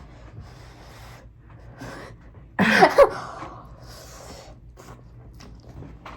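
A person's noisy breaths, sniffs and gasps while eating spicy ramen, with one short, loud voiced cry of wavering pitch about two and a half seconds in.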